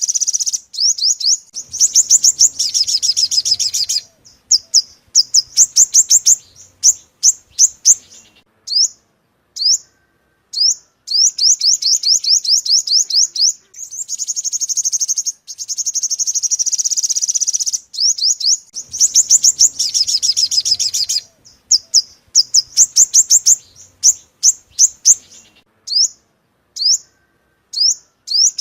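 Sunbird (yellow-bellied 'five-colour' sunbird) singing: fast runs of high, thin rising notes, repeated in bursts with short gaps between, a recording used as a lure to call wild birds in.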